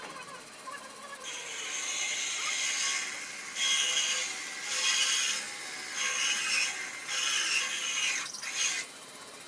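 A workshop tool running in several bursts of harsh, high-pitched noise, starting about a second in and stopping shortly before the end.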